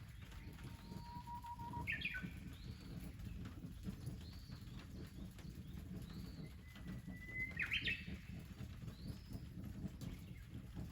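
Birds singing: twice, a long held whistle ends in a quick rippling flourish, and between them short arched chirps repeat about once a second.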